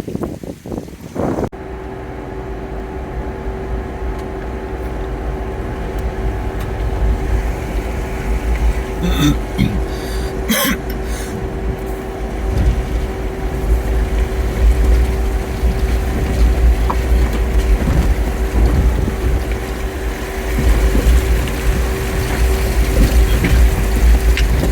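Jeep Wrangler on the move: a steady low rumble of engine and road noise with a constant hum, and a few brief knocks about ten seconds in. The first second or so is wind buffeting the microphone before the sound cuts over.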